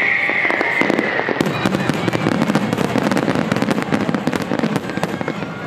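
Fireworks going off: a whistle falling in pitch fades out in the first second, then a dense, rapid crackling of many small pops runs for about four seconds and thins out near the end.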